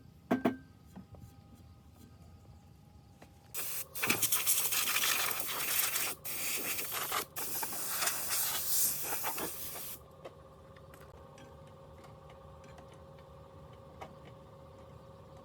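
A few clicks, then a loud hissing spray for about six seconds, broken twice for a moment, before it cuts off and a faint steady hum remains.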